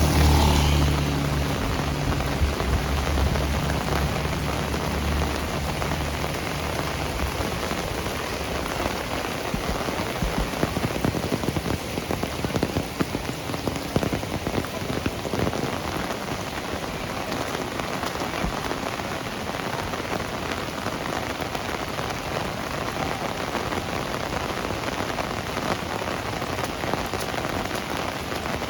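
Heavy rain falling steadily on surfaces. At first a motor vehicle's low engine hum is also heard, fading away over the first several seconds.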